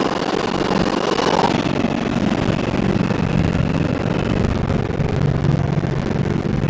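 R142 subway car running at speed between stations, heard from inside: a steady rumble of wheels on rail with a low hum and a faint high whine, and a brief brighter swell about a second in.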